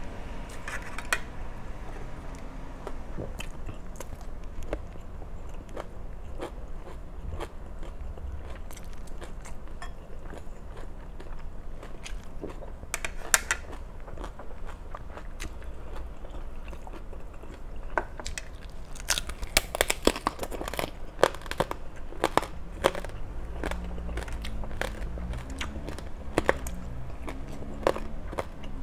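Close-miked eating of crispy pork and fresh vegetables: steady chewing broken by sharp, crackly crunches, which come thickest in a flurry of bites about two-thirds of the way through.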